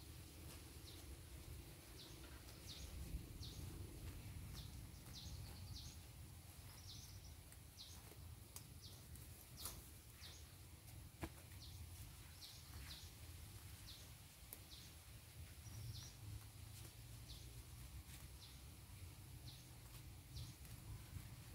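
Faint rural outdoor ambience: a small bird chirping over and over in short high notes, about one or two a second, over a low steady rumble.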